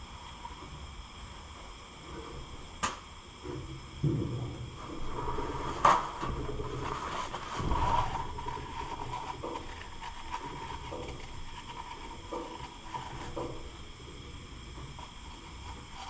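Scattered clanks, clicks and thumps of hand tools and heavy metal parts being handled during engine teardown. There is a sharp click about three seconds in, the loudest about six seconds in, and softer knocks after that.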